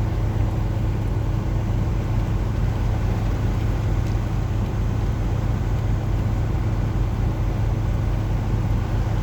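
Steady low hum of a truck running while parked, heard from inside the cab, over an even hiss of rain falling outside.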